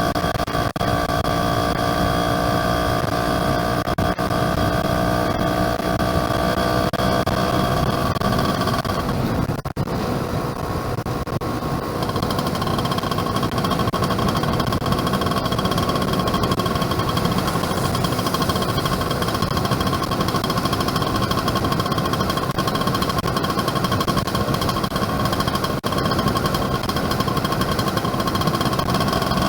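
Yamaha F1ZR two-stroke motorcycle engine running under way at a steady pitch. It briefly drops about ten seconds in, then settles back to a steady, slightly lower pitch.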